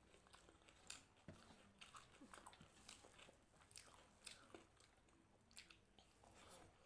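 Faint chewing and biting of crunchy food, with many small irregular crackles and mouth clicks close to the microphone.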